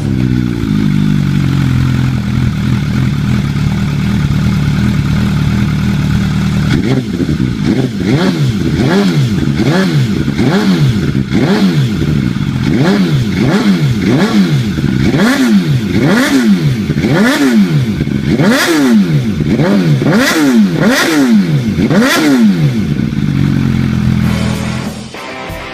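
Motorcycle engine idling, then revved over and over, the revs climbing and falling about once a second, before settling back to a steady idle and cutting off near the end.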